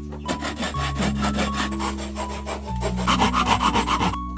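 Wood being cut with a hand saw: quick, even rasping strokes that grow louder toward the end, with background music underneath.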